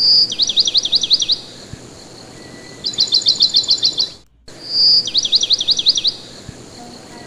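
Pet parakeet chirping in repeated high-pitched phrases. Each phrase is a short whistle followed by a run of quick falling chirps, then after a pause a run of about ten fast, even chirps. The sequence plays twice, broken by a brief silent gap.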